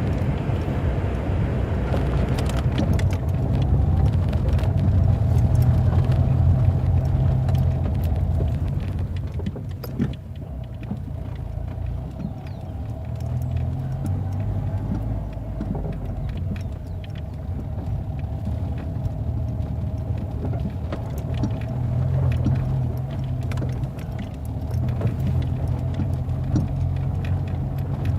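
Steady low rumble of a vehicle on the move, with scattered small knocks and rattles.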